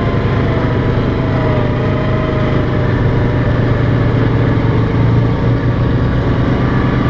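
ATV engine running at a steady pace while riding a trail, its pitch dipping slightly about a second in.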